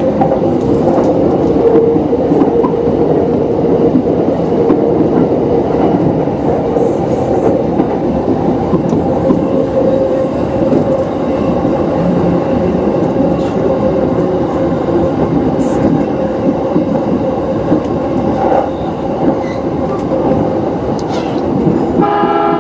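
Electric commuter train running along the track, heard from inside the carriage: a steady rumble of wheels on rail with a constant hum.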